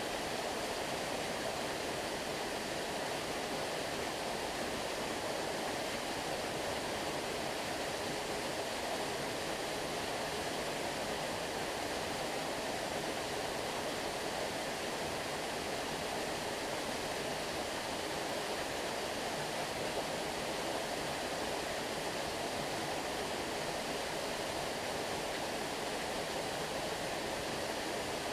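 Flowing stream water making a steady, even rush with no breaks.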